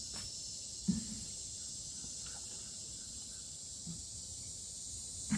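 Steady high-pitched chorus of insects buzzing, with a few soft low thumps: one about a second in, a fainter one near four seconds and another at the end.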